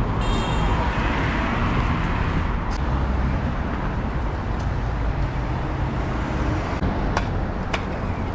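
Street traffic noise: a steady rumble of passing vehicles, with a couple of sharp knocks near the end.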